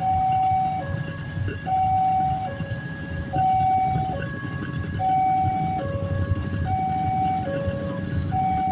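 Railway level-crossing warning alarm sounding its repeating two-tone signal, a higher note then a lower one about every 1.7 seconds, which means a train is coming or passing and the crossing is closed. Under it is the low rumble of queued traffic engines.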